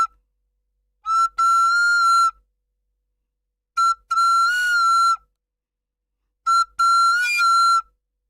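Recorder playing the same high note in three short phrases, each a brief note followed by a longer held one, with silence between the phrases.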